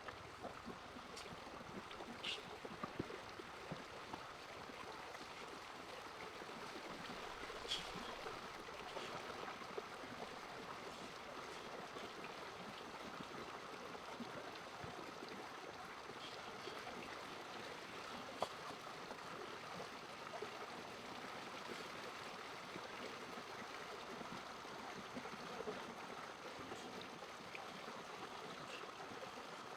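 Steady running water, like a stream, with a few faint clicks.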